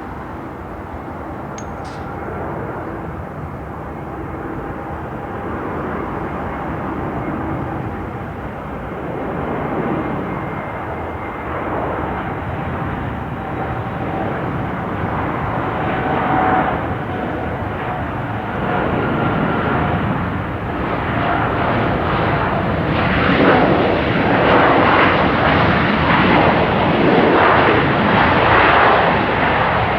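Jet airliner's engines rumbling with a rushing roar that grows steadily louder, loudest over the last several seconds as the aircraft comes close.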